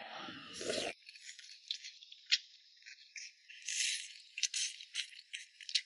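Crisp, irregular crunching of someone chewing spicy red-oil beef tripe, heard as thin, trebly crunches every half second or so.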